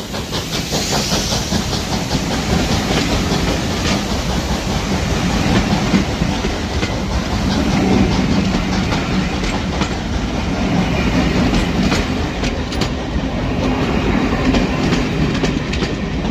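Passenger coaches of a steam-hauled train rolling past at close range, their wheels clicking steadily over the rail joints.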